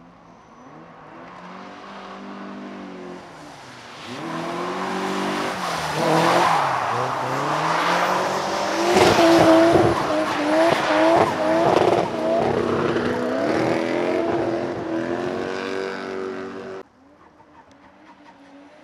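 A 1JZ straight-six in a drifting Toyota Cressida, revving up and down repeatedly through a slide, with tyres squealing. It builds in loudness as the car comes closer, is loudest in the middle, and cuts off suddenly near the end.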